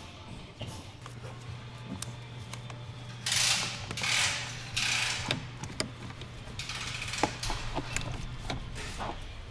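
Hand tools working on car parts: scattered clicks with a run of louder rasping ratchet-like strokes in the middle, over a steady low hum.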